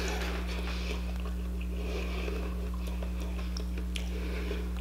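Chewing of spicy chicken wings, with scattered small clicks as sauce-covered fingers pick through a glass bowl, over a steady low hum.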